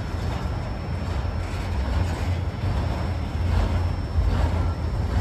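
Freight cars, a refrigerated boxcar and autoracks, rolling past on the rails: a steady low rumble of steel wheels on track.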